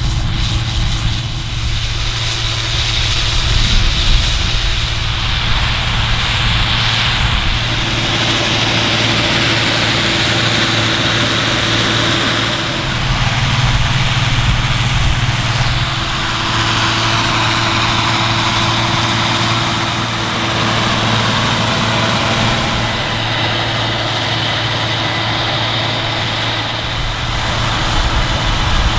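Large farm machine's diesel engine running steadily at working speed, with a continuous hum and the hiss of the machine at work.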